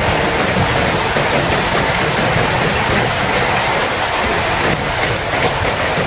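Steady heavy rain: a dense, even hiss of falling rain with scattered drop patter.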